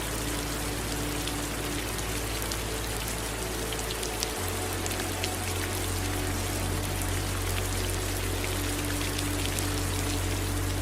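Steady rain falling, with many separate drops pattering on a surface. A low, steady rumble joins in about four seconds in.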